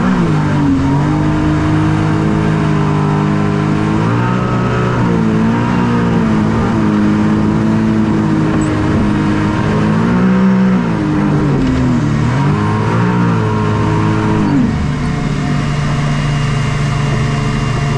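Engine of the Hydro Attack shark-shaped watercraft running hard, its note rising and falling as it revs up and down. About fifteen seconds in it settles to a steady, even running note.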